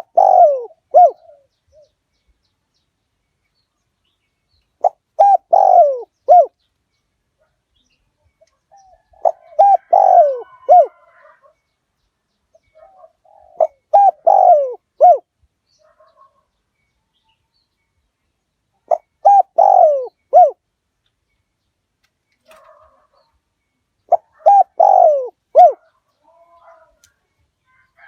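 Spotted dove cooing: six phrases about five seconds apart, each a quick run of short coos with one longer falling note. This is a decoy call, played to lure wild spotted doves in.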